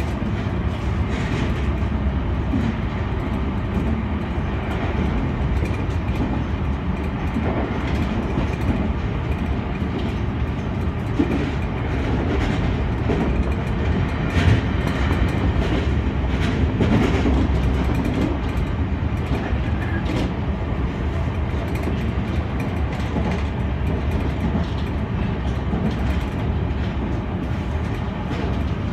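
Senboku Rapid Railway 7020 series electric train heard from the driver's cab while running: a steady rumble of wheels on rail with light clicks over rail joints, and one sharper knock about halfway through.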